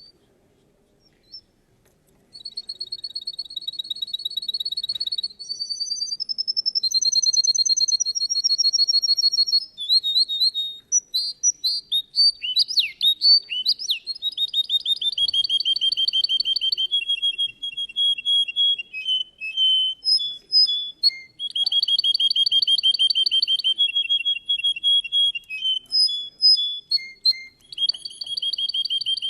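Russian song canary (domestic canary) singing, starting about two seconds in: long rolling runs of rapid repeated notes, each run held for a few seconds before it changes to another pitch or pattern.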